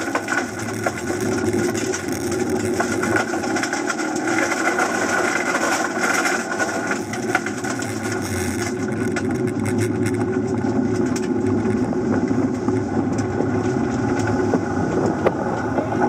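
In-cabin sound of a Suzuki Swift Sport ZC33S's 1.4-litre turbocharged four-cylinder running on a gravel dirt-trial course, with a dense hiss of tyres and loose stones over the engine. About halfway through the hiss thins out as the car slows and the engine drops toward a low, steady note.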